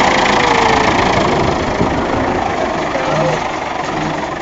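Tractor engine running loudly and steadily, with a fast even pulse from its firing, easing off a little toward the end.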